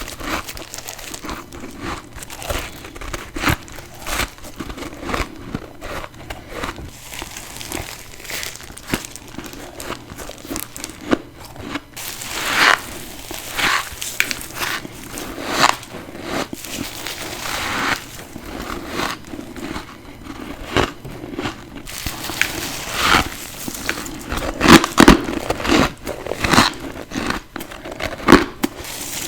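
A person biting and chewing ice close to the microphone: dense, irregular crunching and crackling, with louder bursts of crunches in bunches.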